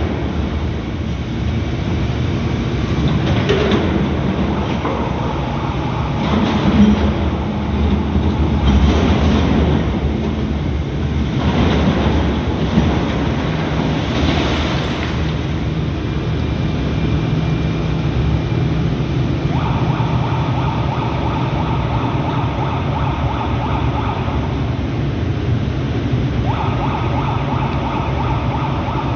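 Volvo ECR235EL excavator's diesel engine running steadily under working load, with a steady higher whine that comes in twice in the second half.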